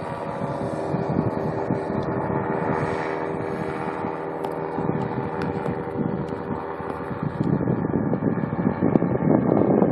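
Paramotor engine and propeller running steadily, with gusts of wind buffeting the microphone that grow louder over the last couple of seconds.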